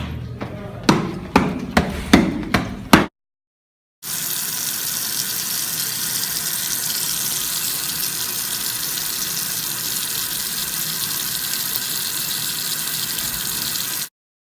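A run of sharp knocks over the first three seconds. Then, after a second of silence, water runs steadily for about ten seconds and cuts off suddenly.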